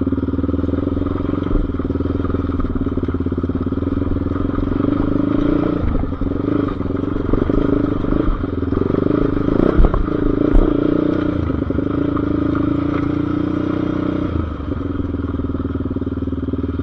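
Single-cylinder off-road engine running at a steady, even pitch, with a few knocks and some clatter about halfway through.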